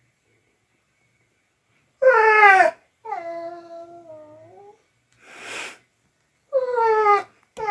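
Dog making strange vocal noises. About two seconds in comes a loud call that falls in pitch, then a softer drawn-out moan, a short breathy huff, and another loud falling call near the end.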